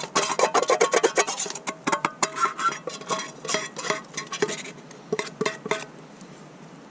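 A metal utensil scraping and clattering against a pan and a metal plate as stir fry is tipped and scraped out, a quick run of clinks and scrapes, some ringing briefly, that dies away about a second before the end.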